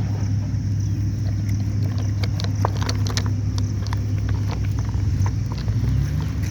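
Steady low engine drone, with scattered short high clicks and chirps over it.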